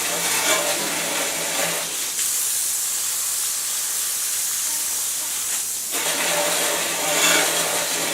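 A steady hiss, with a low hum in the first two seconds that returns about six seconds in.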